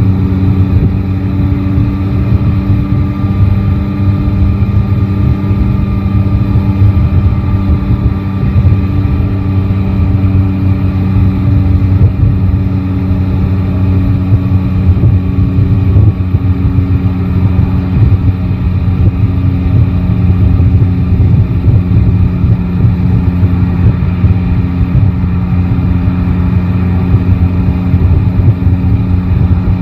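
Yamaha Tracer 9 GT's 890 cc inline-three engine running at a steady, nearly constant pitch while riding, with a rough low rumble underneath.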